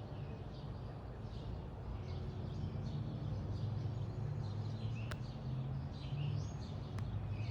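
Small birds chirping faintly and repeatedly over a steady low hum of background noise. Two sharp clicks come near the end.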